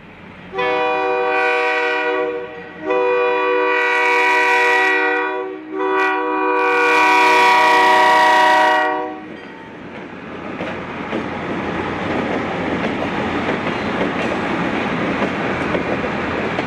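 Diesel locomotive air horn on an F9H-led passenger train, sounding three long blasts for a road crossing, followed by the steady rumble and clatter of the train rolling past on the rails.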